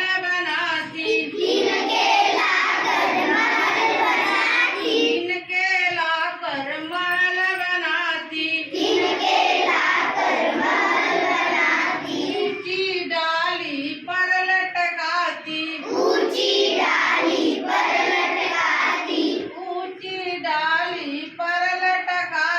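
Children singing a Hindi song in chorus; clear single-line passages alternate with fuller group passages.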